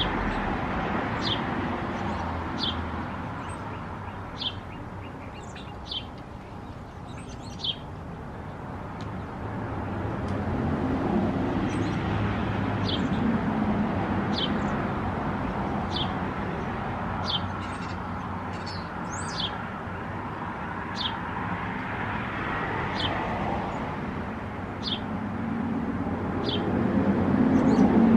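Small bird giving short, high chirps, one about every second and a half, over traffic noise that swells and fades as vehicles pass.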